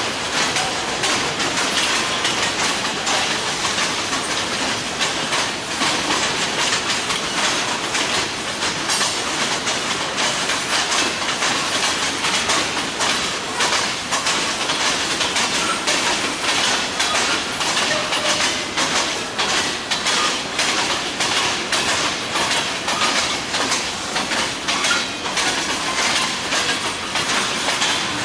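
Freight train cars rolling past, their steel wheels clicking rapidly and steadily over rail joints above a continuous rolling rumble.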